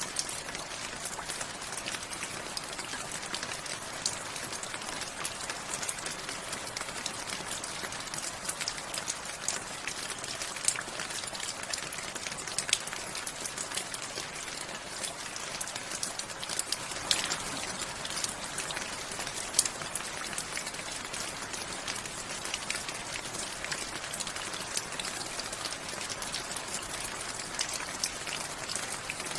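Steady rain falling, a continuous hiss with many individual drops pattering close by, a few louder drop hits scattered through.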